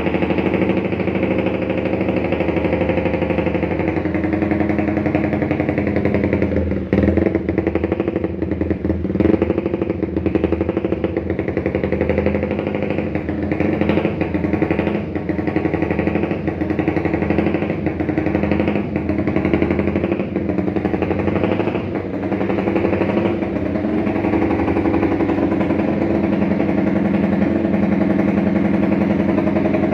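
Honda CBR150R's single-cylinder four-stroke engine idling through a WRX GP 6 aftermarket exhaust, mostly steady, with a few brief wobbles in the middle.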